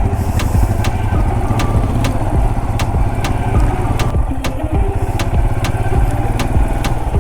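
Motorcycle engine running steadily, with a sharp tick repeating about twice a second.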